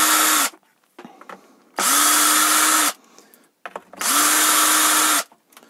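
Electric drill-driver running in three short bursts of about a second each, spinning up and winding down each time, as screws are backed out to take the cylinder off a chainsaw.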